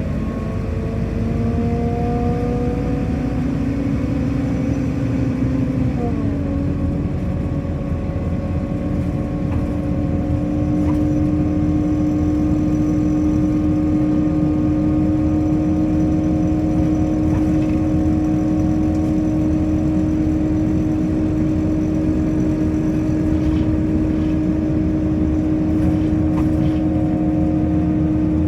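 Scania K230 UB city bus's diesel engine running under way with a steady whining note. The pitch climbs slightly, then drops about six seconds in as the gearbox shifts up. After that it holds steady, a little louder from about ten seconds in.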